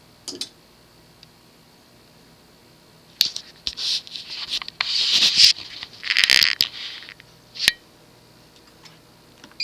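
Several seconds of scraping and rustling, with a short tick at the start and a single sharp click near the end.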